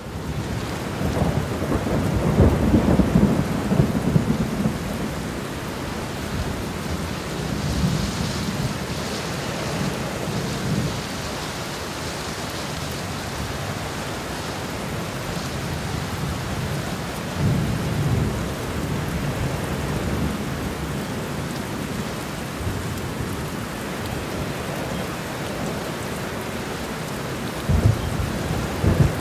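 Heavy rain falling steadily with thunder rumbling several times over it, the loudest and longest rumble in the first few seconds and a shorter one near the end.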